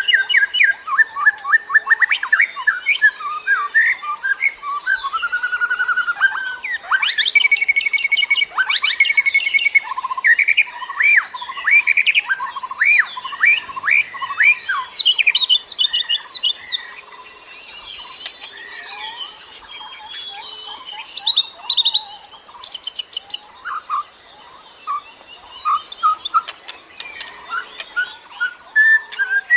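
Bird lure song: rapid, varied chirps, trills and whistled notes, dense for the first half and thinning out from a little past the middle.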